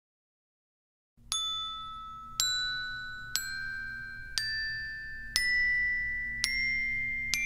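Silence for about a second, then seven single struck chime notes, about one a second, each higher than the last and ringing on, over a faint low hum.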